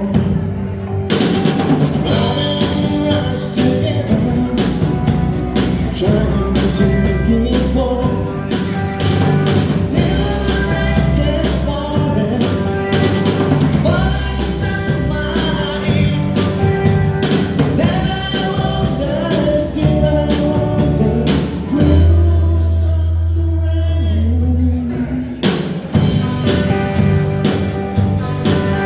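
Live rock band playing: drum kit, bass guitar and two guitars under a male lead vocal. About two-thirds of the way through, the drums stop for a few seconds under a held low bass note before the full band comes back in.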